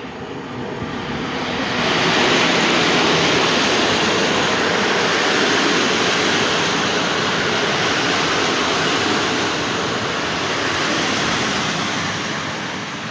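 TLK passenger train passing close by at speed: a loud, even rush of wheel and air noise that builds over the first two seconds, then holds steady and eases slightly near the end.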